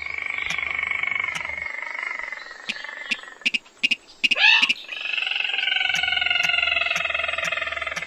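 Recorded lure call of the sintar mata merah, a small red-eyed crake of rice fields. A long buzzy trill falls slowly over about three seconds, a short rising squeal follows about four seconds in, and then another long trill slides gently down. Sharp clicks tick through it all.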